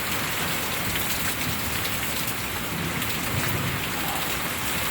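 Steady downpour of rain mixed with hail, with many small hailstones ticking on hard surfaces, the hail going "kink, kink, kink" on everything.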